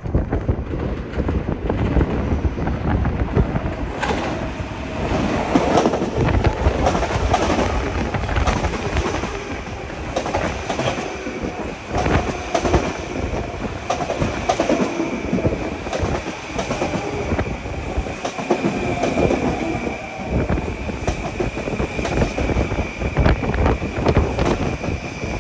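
Long Island Rail Road electric commuter train passing close by, its wheels clicking over the rail joints. A steady high whine joins the train noise about ten seconds in.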